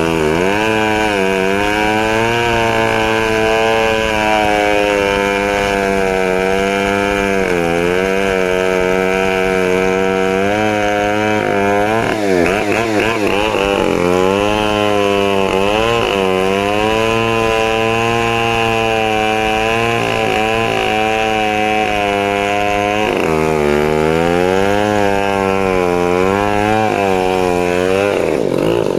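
Stihl 070 two-stroke chainsaw running at high revs while cutting wood. Its pitch sags and recovers several times as the chain bites under load.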